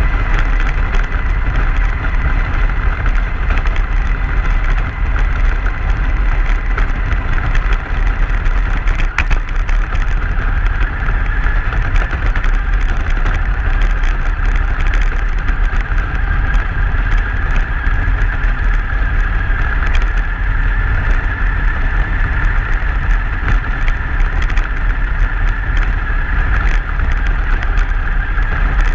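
Truck driving on a snowy road: a steady, loud rumble of tyres and running gear with a constant high hum above it.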